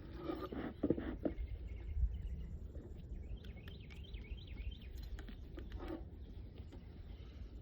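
Outdoor ambience with a steady low wind rumble on the microphone and a few knocks and handling noises in the first second or so; about three seconds in, a bird sings a quick phrase of notes sliding up and down.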